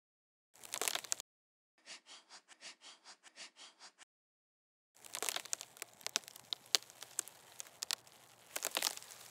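Crackling and rustling of a nest of dry twigs and straw, foley for a stop-motion scene. A short crackle comes about half a second in, then a quick run of about a dozen soft, even strokes, then longer crackling and rustling with sharp snaps from about five seconds in.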